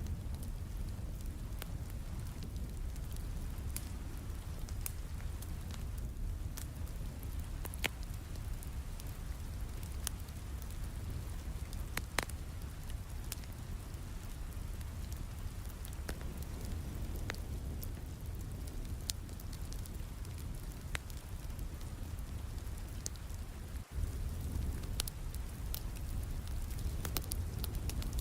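Steady rain with a wood fire crackling, its pops and snaps scattered irregularly over a low, even rumble. The sound dips for an instant about four seconds before the end.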